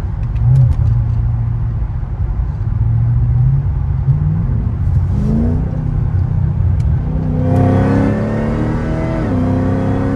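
Cadillac CTS-V's V8 engine pulled hard but briefly under acceleration. The engine note climbs with revs from about halfway, drops suddenly at an upshift near the end, then climbs again.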